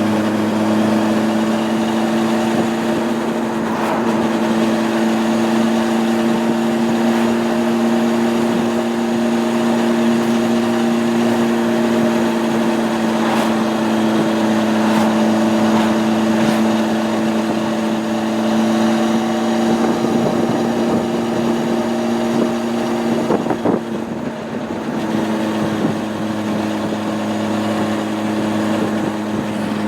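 Honda CB600F Hornet's inline-four engine running at a steady, even pitch while riding. About 23 seconds in the note briefly falters and drops in level, then settles back to the same steady pitch.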